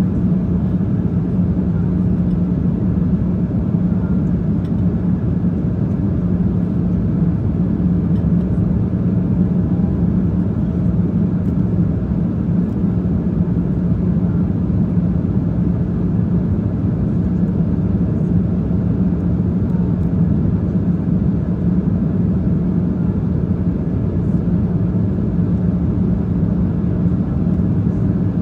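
Jet airliner cabin noise in flight: a steady low rush of engines and airflow with a constant low hum.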